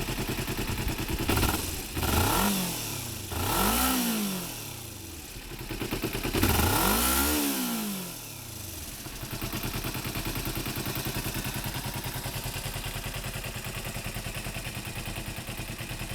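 Kawasaki ZZ-R250 parallel-twin engine breathing through a Tsukigi Racing aftermarket muffler: it idles, is blipped up and down several times in the first half, then settles back to a steady idle.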